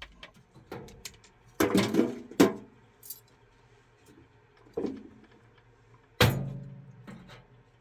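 Several knocks and clinks of hard objects being handled, with a cluster about two seconds in and one loud clang about six seconds in that rings on and fades.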